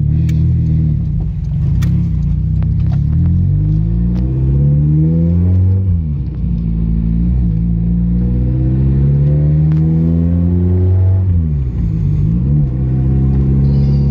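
Nissan 180SX Type R's turbocharged SR20DET four-cylinder, heard from inside the cabin, accelerating through the gears of its manual gearbox. The engine note rises in pitch, drops at an upshift about six seconds in, rises again and drops at another shift about eleven seconds in, then settles into a steady note.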